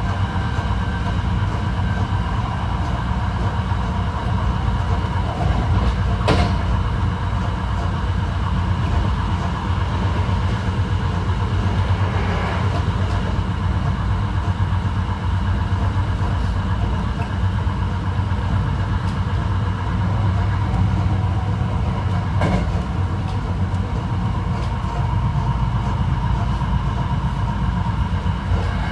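Hankyu 9300 series electric train with Toyo IGBT traction equipment running at a steady speed, heard from inside the car: a constant rumble of wheels on rail with a steady whine over it that neither rises nor falls. Two sharp clicks stand out, about six and about twenty-two seconds in.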